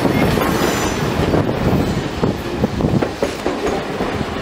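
Passenger cars of a train rolling past close by on a curve, their wheels knocking and clacking over the rail, fading away near the end as the last car clears.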